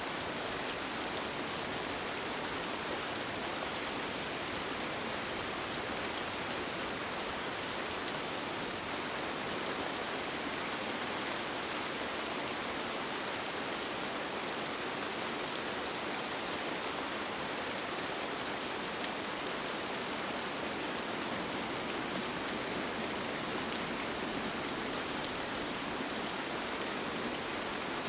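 Steady rain falling on a tent, an even hiss with faint scattered drop ticks.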